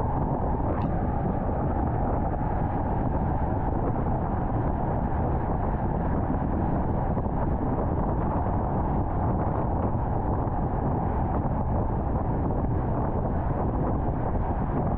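Steady road and wind noise of a car driving at highway speed, an even low rush with no changes.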